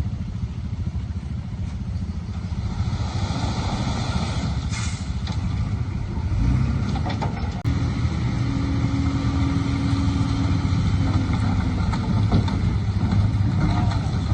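Heavy diesel engine of earthmoving machinery running steadily. Its note shifts about six seconds in, and a single knock follows soon after.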